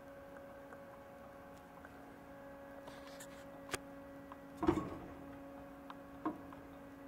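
A steady electrical hum, with a few light clicks and one louder knock with a brief ring about two-thirds of the way in. These are handling sounds from a salvaged motorcycle front wheel rim being moved.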